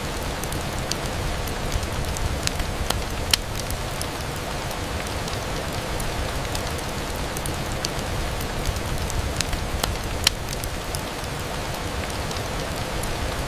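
Steady rain falling on a window, an even hiss with scattered sharp ticks of drops. Two ticks, about three seconds in and about ten seconds in, stand out louder than the rest.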